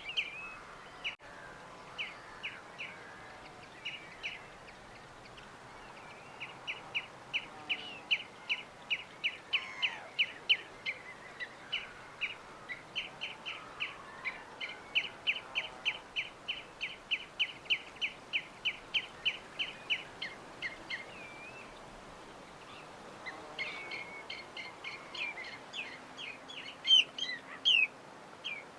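Small birds chirping: long runs of short, evenly repeated chirps, several a second, over a faint steady background hiss. The chirping pauses for a couple of seconds past the middle, then starts again near the end.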